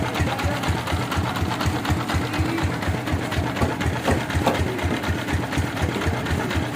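Sawmill machinery running steadily, its engine beating with a regular low thump of about five beats a second.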